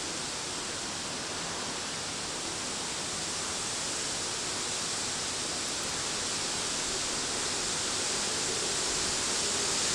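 Strong tropical-storm wind whipping through the buildings: a steady rushing noise that grows slightly louder near the end.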